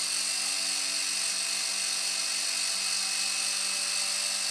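Battery-powered electric motor and propeller of an RC paraglider running steadily at low throttle, a constant whirring whine.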